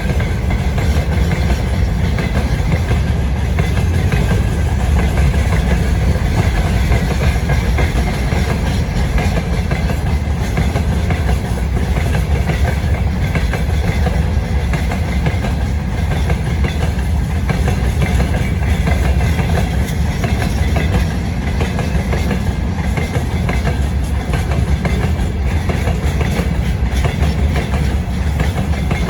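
Freight train wagons rolling steadily past, their wheels clattering over the rail joints with a continuous low rumble.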